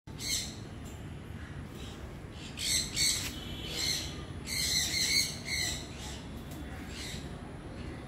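Birds calling: a series of short, harsh chirps and squawks, thickest around the middle, over a steady low background rumble.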